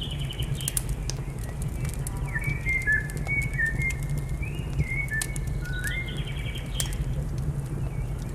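A songbird sings in short, high, chirping phrases over the scattered crackles and pops of a wood fire, with a steady low rumble underneath.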